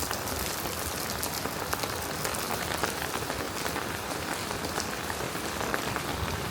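Steady rainfall: an even hiss with many small, sharp drop ticks close by.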